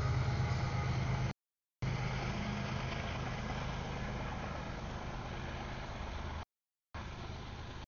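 CSX double-stack container freight train rolling past: a steady rumble with a low hum that slowly fades. The sound cuts out completely twice for about half a second.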